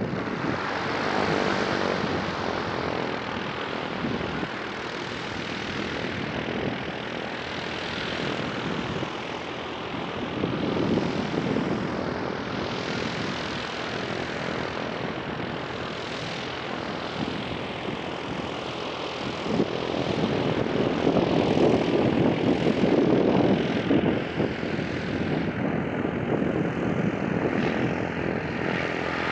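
Propeller airplane's engine running steadily, getting louder for a few seconds from about twenty seconds in.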